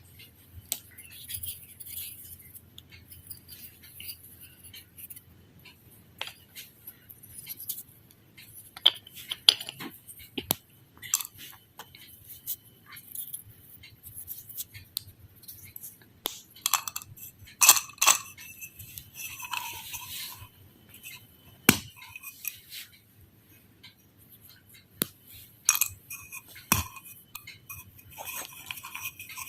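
Irregular sharp clicks, taps and clinks of small hard objects, mostly high-pitched, with a few short scraping or rustling patches.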